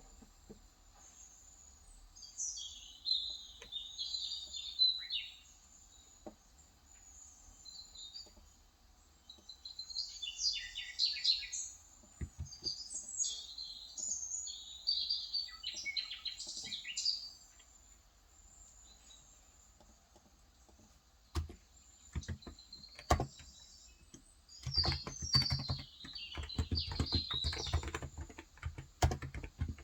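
Small birds chirping in several bursts of rapid high twitters, with quiet gaps between. Near the end, typing starts on a Cox Endeavor electro-capacitive (contactless, 35 g) tenkeyless keyboard, after a couple of single keystrokes shortly before.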